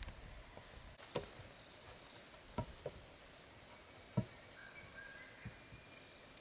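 A handful of sharp, separate knocks or clicks, the loudest a little past four seconds in, over a faint background with thin high calls.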